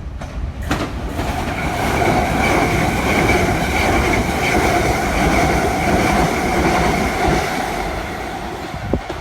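A train passing close by, its noise building over the first second or so and easing near the end. Steady whining tones sit over the rumble of the wheels.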